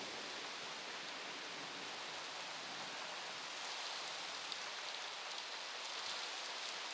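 Steady rain falling during a thunderstorm, heard through a front-door security camera's microphone, with a few faint drop ticks.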